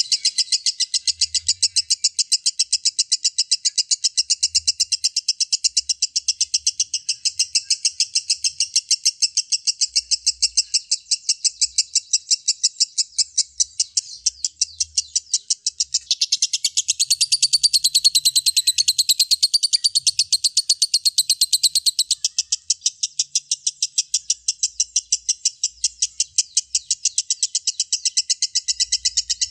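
Lovebird's long 'ngekek': an unbroken, rapid high-pitched chatter of evenly repeated notes, swelling louder for a few seconds past the middle.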